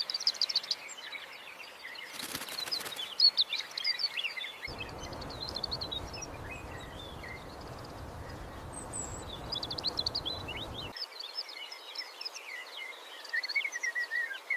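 Small birds chirping and twittering in short high calls and trills, with a brief rush of noise a couple of seconds in and a steady hiss of background noise from about five to eleven seconds in.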